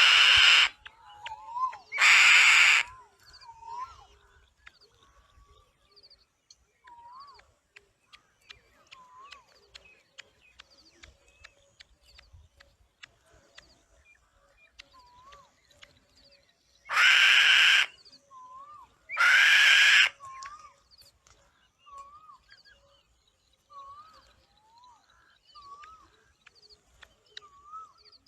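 Bird calls: two pairs of loud, harsh screeches, the pairs far apart, with many short, quieter upward-curling chirps repeating in between.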